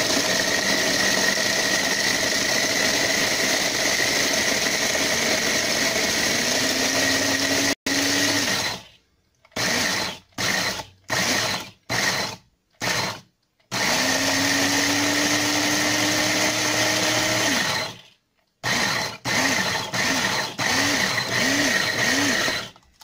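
Small food processor grinding chocolate sandwich cookies into crumbs: long continuous runs of the motor, the pitch of the first one rising as the cookies break down, broken up by a series of short stop-start pulses.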